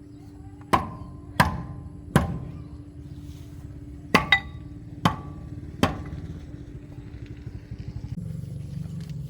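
Sharp metal knocks, seven at uneven spacing with two close together in the middle, each ringing briefly, over a steady low hum that shifts about eight seconds in.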